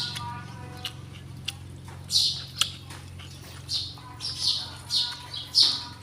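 Bird chirping: a run of short, high calls, most of them in the second half and about half a second to a second apart, with a few sharp clicks, over a steady low hum.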